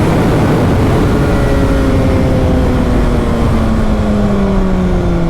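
Sport motorcycle running at road speed under heavy wind noise, its engine note falling slowly and steadily as the bike eases off and slows.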